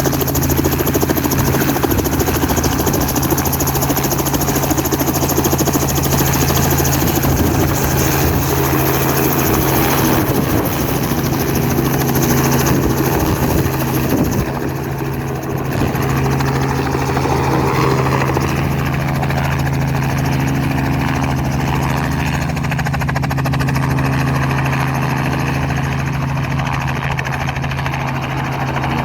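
Robinson R44 helicopter running close by for take-off: a loud, steady engine and rotor sound with a constant low hum and a rushing hiss on top, the hiss easing a little about halfway through.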